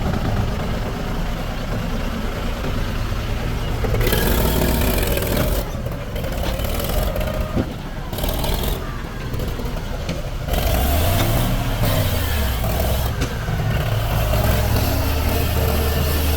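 Heavy diesel engine of earthmoving machinery running, revving up and back down once about two-thirds of the way through, then holding a steady speed.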